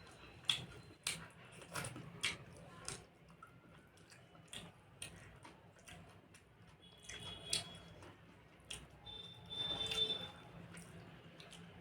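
Close-up eating sounds: wet smacking and chewing of curry and rice, a string of short irregular clicks and squishes with louder clusters now and then.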